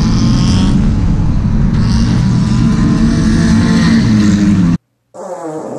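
Demolition-derby Honda's engine running hard, heard from the car's own onboard camera, with the steady din of the car on the dirt track; it cuts off suddenly about five seconds in.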